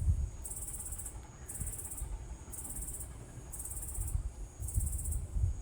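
An insect, likely a cricket, singing in high-pitched buzzy trills about half a second long, repeating roughly once a second, over a low rumble.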